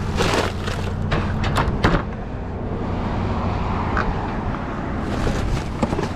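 Vehicle engine idling steadily, with a few sharp knocks and rattles of things being handled in the first two seconds and again near the end.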